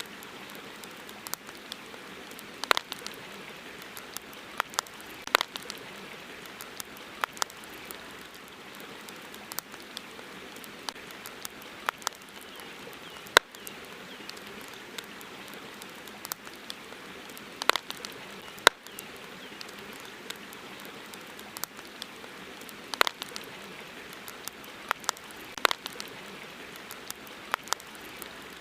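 Wood campfire crackling, with irregular sharp pops and snaps, two much louder snaps about thirteen and eighteen seconds in, over a steady soft hiss.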